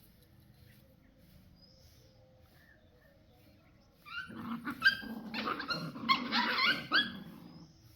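Puppies whining and yelping: a run of high, wavering cries that starts about halfway through and lasts a few seconds before cutting off.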